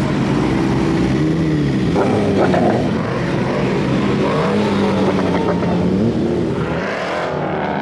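Car engines running and revving, their pitch climbing and dropping several times.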